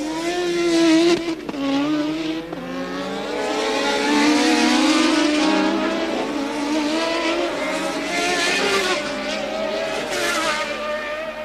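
1983 Formula One cars passing at speed one after another, their engine notes rising, falling and stepping in pitch as they go by.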